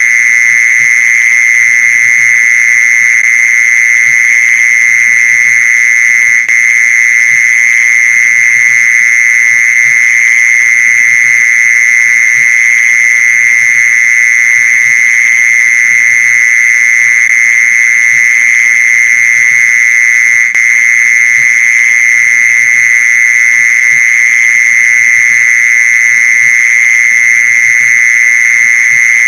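Mole cricket call: one continuous, steady high-pitched trill, the song used to lure mole crickets. It is broken only by two momentary dips, about a third of the way in and again about two thirds in.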